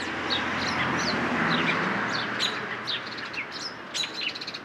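Small birds chirping over and over in short, quick downward chirps, over a steady rushing noise that eases off about halfway through.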